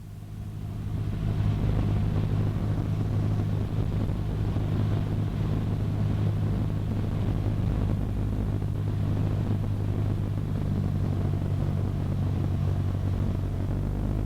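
Cessna 152's four-cylinder Lycoming O-235 engine and propeller droning steadily in cruise, heard from inside the cockpit. The drone swells over the first second or so as a radio call cuts off, then holds even.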